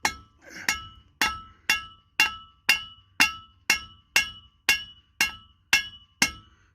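Hammer striking steel in a steady run of about two blows a second, each blow ringing metallically, while a stuck part on a truck's rear axle is knocked loose.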